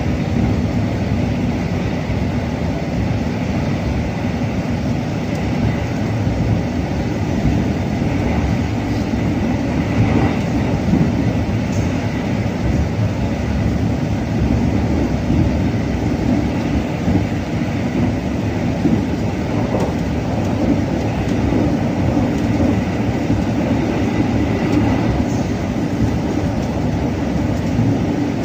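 Passenger train running on the rails, heard from on board: a steady, loud rumble of wheels and carriage, with a few faint clicks.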